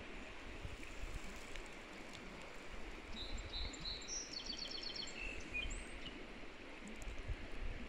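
Quiet outdoor ambience with a low rumble. About three seconds in, a small songbird sings one short phrase: a few high notes, then a quick ticking trill, then two lower notes.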